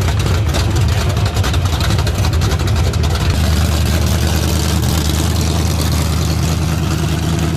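Car engine running loud through open, uncapped exhaust headers, a dense crackling exhaust note; about three and a half seconds in it settles from an uneven, rev-varying sound to a steady held note.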